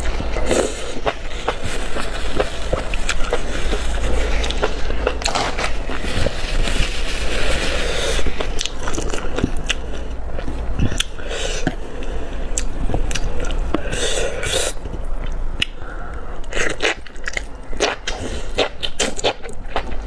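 Close-miked chewing and slurping of spicy enoki mushrooms: a steady run of wet, squeaky-crunchy bites with many small clicks and smacks, over a low steady hum.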